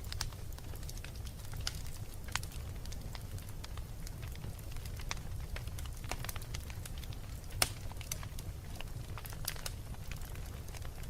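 Wood fire crackling in a fireplace: scattered sharp pops and snaps over a steady low rumble of the flames, with louder pops about two seconds in and again past seven seconds.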